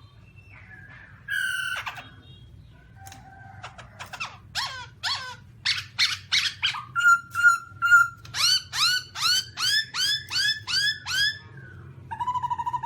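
Black-throated laughingthrush calling: a short note about a second in, then a run of repeated sweeping notes from about four seconds in that settles to about three a second, and a long pulsing tone near the end.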